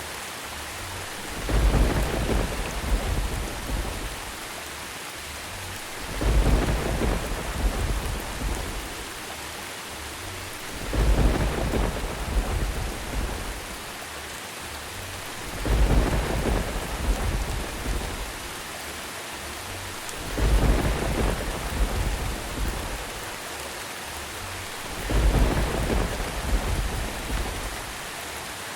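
Steady rain with thunder rumbling over it. Six low rumbles swell and fade at even intervals of about five seconds.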